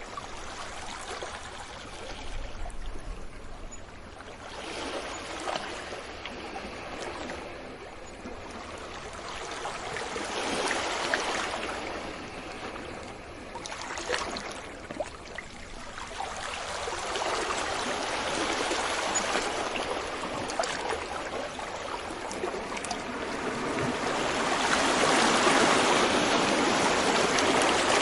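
Sea waves breaking and washing up a beach, the surf swelling and ebbing in several surges, with the largest and loudest building near the end.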